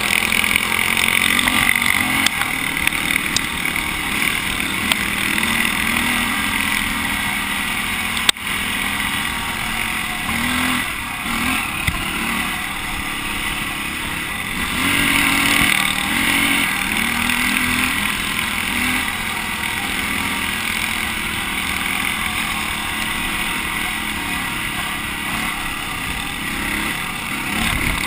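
Dirt bike engine running under a changing throttle, its pitch rising and falling, mixed with a steady noisy rush. There is one sharp knock about eight seconds in.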